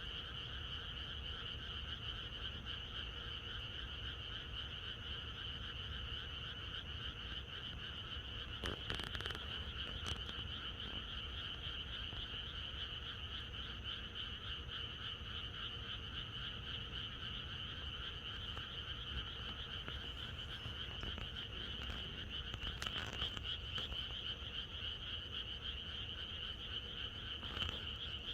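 A dense chorus of many frogs calling continuously, with a few louder calls standing out now and then.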